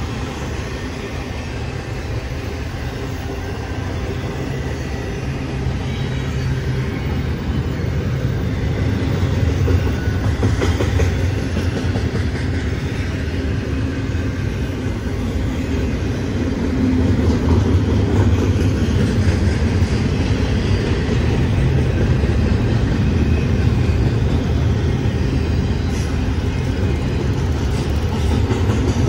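BNSF intermodal freight train's cars, trailer flatcars and double-stack container well cars, rolling past on the rails: a steady low rumble that slowly grows louder.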